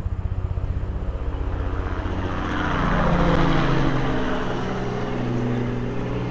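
Powerboat engines on the river: a low engine with a fast pulsing beat, then a louder engine that swells up about two and a half seconds in and eases off into a steady drone.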